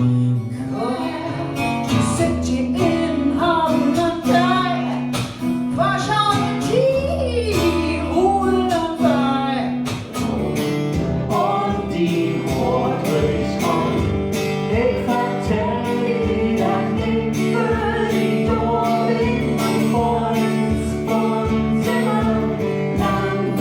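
A song: a singing voice over acoustic guitar. From about ten seconds in the guitar settles into a steady, evenly plucked rhythm under the melody.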